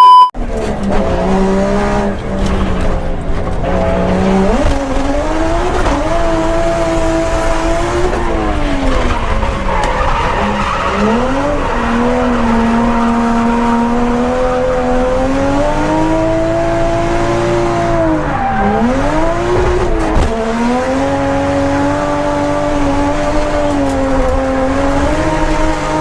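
A sports car's engine revving hard, its pitch climbing and dropping again and again as the throttle is worked, with several sharp drops and recoveries in the middle.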